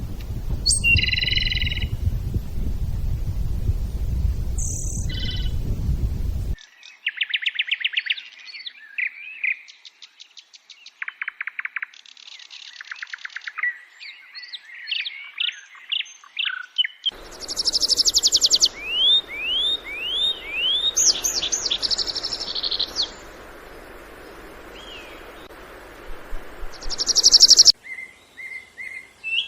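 Small wild songbirds chirping, trilling and whistling, several different songs with many quick rising upslurred notes. The sound changes abruptly a few times, with a steady low background noise under the birds in the first few seconds and again in the latter half.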